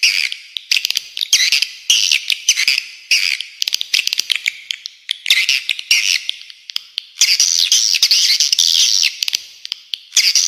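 Spiderhunter song mixed with swiftlet twittering: rapid, high-pitched chattering phrases about half a second to a second long, running together into one long unbroken burst about seven seconds in.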